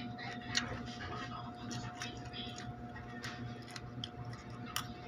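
Close-up chewing of crisp raw cucumber slices, with sharp, irregular crunches and clicks about once or twice a second. A metal spoon also works in the salad bowl, over a steady low hum.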